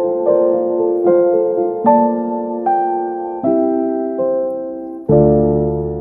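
Background piano music: slow chords struck about once every second, each fading, with a deeper bass chord coming in about five seconds in.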